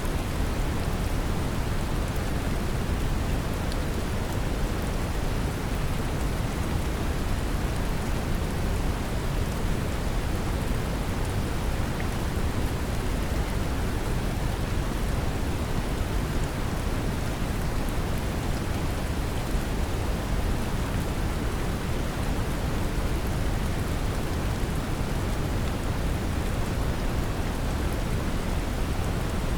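Brown noise mixed with a recording of steady, gentle rain: an even, deep hiss with rain pattering over it, unchanging throughout.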